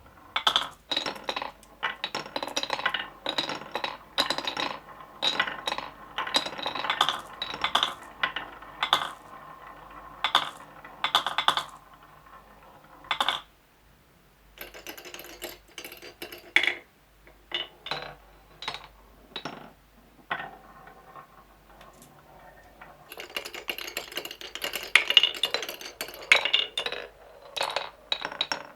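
Marbles clicking and clacking as they roll and drop through a marble run. The clicks come thick and fast for about the first twelve seconds, thin out to scattered clicks in the middle, then merge into a dense rattle for several seconds near the end.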